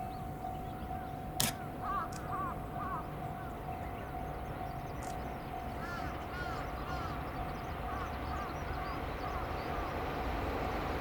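Railway level-crossing warning bell ringing in a steady repeating pattern, with small birds chirping and one sharp click about a second and a half in. A low rumble grows near the end.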